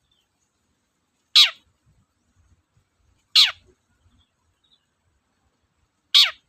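Long-tailed shrike (cendet) giving three short harsh calls, each sweeping steeply down in pitch, spaced two to three seconds apart.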